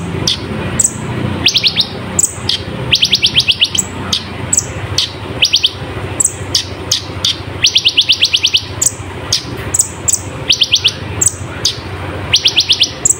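Kolibri ninja sunbird singing: fast rattling trills of evenly spaced high notes, about half a second each, repeated every second or two and broken up by short, sharp high chips.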